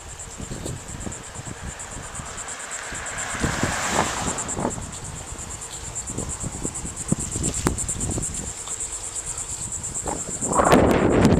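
A steady, fast-pulsing high trill of insects, with wind rumbling on the microphone as the bike rides along; the wind rush grows louder near the end.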